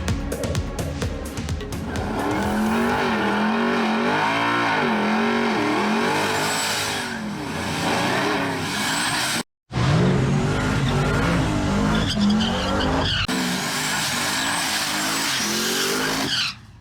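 Drag race car engines at full throttle, the pitch swinging unevenly up and down as the tyres spin and catch on a slick surface, with tyre squeal. The sound cuts out abruptly about nine and a half seconds in and resumes with another run.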